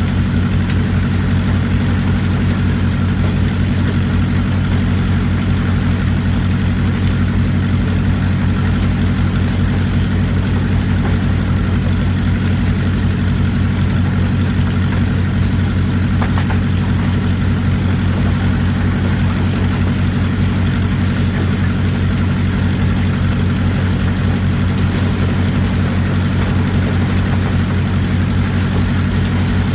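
Excavator's diesel engine running steadily at an even idle, a low hum that does not change, over a steady hiss of running water.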